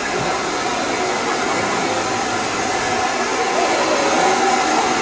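Steady loud hiss of steam escaping from a steam locomotive.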